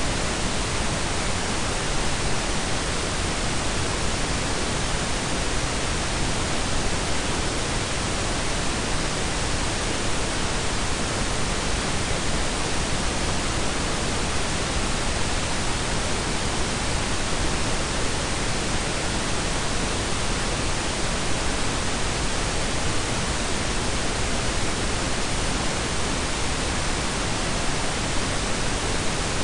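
Synthetic pink and brown noise blended together: a steady, unchanging hiss with a deep rumble beneath it.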